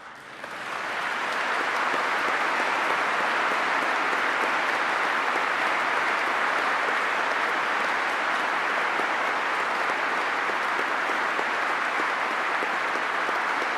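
Large audience applauding, swelling up over the first second and then sustained at a steady level.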